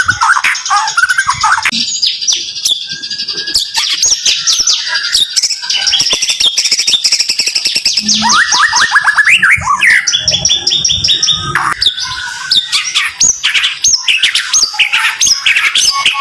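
White-rumped shama (murai batu) singing a dense, rapid-fire song of short sweeping notes, fast trills and sharp clicking notes, with hardly a pause.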